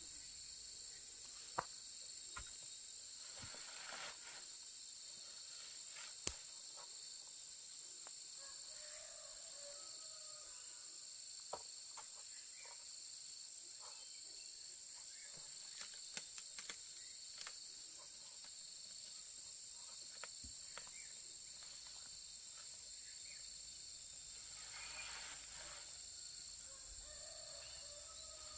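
Continuous high-pitched insect chorus of crickets or cicadas, with scattered sharp clicks and knocks, the loudest about a second and a half in and about six seconds in.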